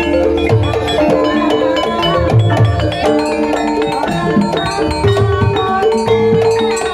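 Javanese gamelan-style music for an ebeg (kuda lumping) dance: a busy melody of struck keys over drums and recurring low strokes.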